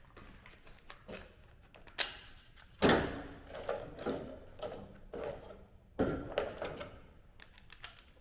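Metal panel and tools being handled while a trimmed repair piece is offered up to the car's bodywork: a string of separate knocks and clatters, the loudest about three seconds in and again at six seconds.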